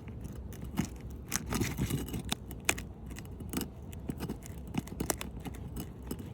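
Metal roof snake working under an asphalt shingle to break its seal: irregular scrapes and light metallic clicks as the bar slides and pries.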